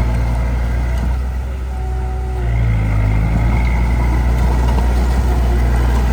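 Heavy diesel engine of earthmoving machinery running steadily under load. It eases off briefly about two seconds in, then picks back up.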